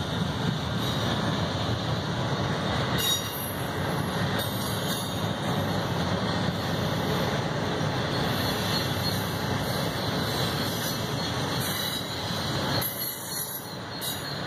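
Double-stack intermodal freight cars rolling past: a steady rumble of steel wheels on the rails, with a thin high squeal of wheel flanges in the curve that grows stronger near the end.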